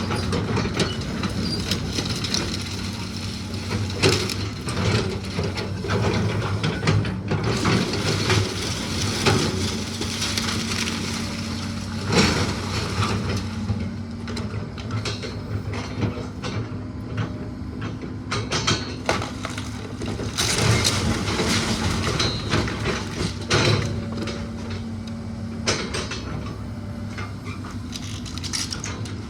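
A heavy machine's engine running steadily while rotten wooden structure is torn down, with repeated cracks and crashes of breaking timber.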